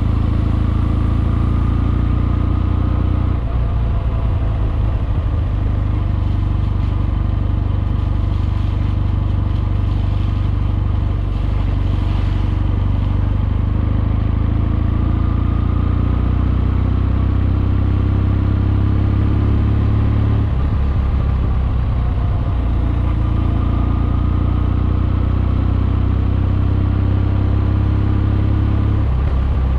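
Kawasaki W650's air-cooled parallel-twin engine running under way through Wyvern Classic mufflers, heard from on board the motorcycle. The engine note is steady, changing about three seconds in and again about twenty seconds in as the throttle or gear changes.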